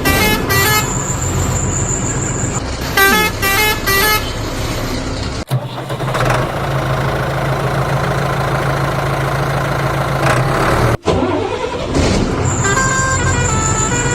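Dubbed truck sound effects: a musical horn playing a tune of short stepped notes, cutting to a steady low drone about halfway, then the horn tune again near the end.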